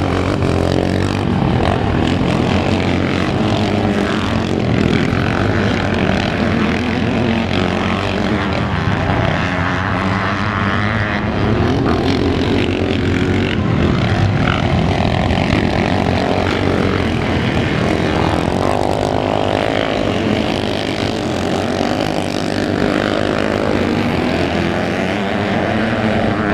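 Motocross bikes racing, their engines revving up and falling back over and over as the riders accelerate and shift through the course.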